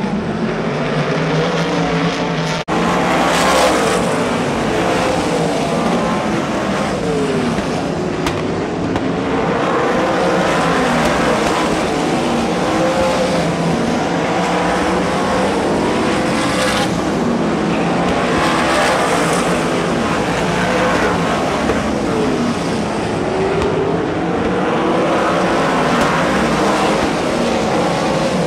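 Sprint car engines racing around an oval track, their pitch rising and falling over and over as the cars power down the straights and back off into the turns.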